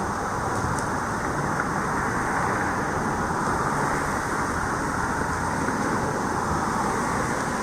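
Steady rush of a fast-flowing river swollen by storm runoff.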